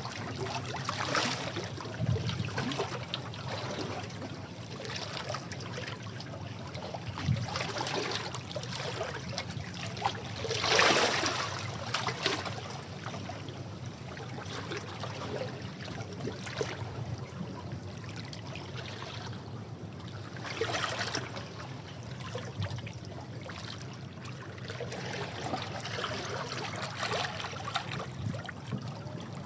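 Sea waves washing against rocks, with irregular surges of splashing and trickling water; the biggest wave breaks about 11 seconds in.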